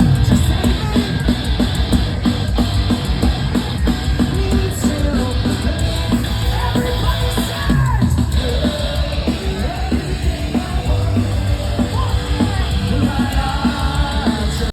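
A live rock band playing loud at a festival stage, with drums, guitars and a singer yelling and singing, in one unbroken stretch.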